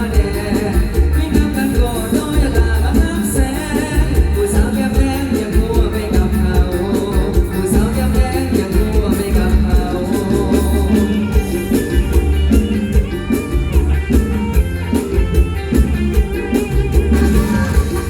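Live mor lam band music amplified through a PA, with a strong steady bass beat and a melody line and singing above it.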